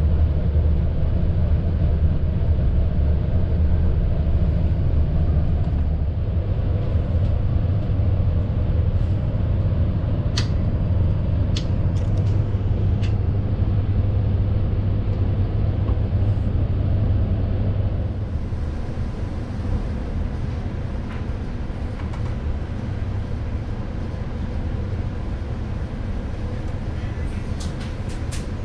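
Passenger train running: a steady low rumble that drops a little about eighteen seconds in, with a few brief sharp high squeaks or ticks scattered through it.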